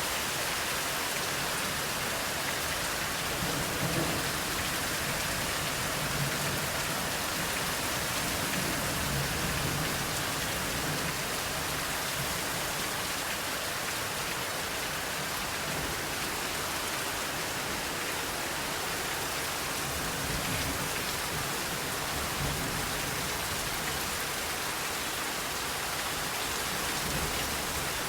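Steady heavy rain hissing, with low rumbles of distant thunder rolling in a few seconds in and again past the middle.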